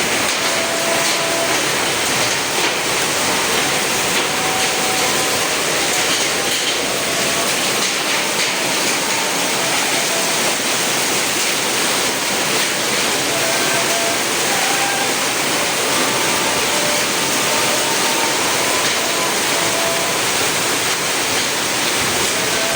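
Heavy downpour with hail and strong wind: a steady, dense roar of rain and hailstones.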